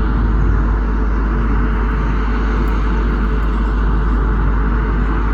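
Boeing 737 MAX 8 airliner passing overhead at low altitude, its jet engines giving a steady, loud noise.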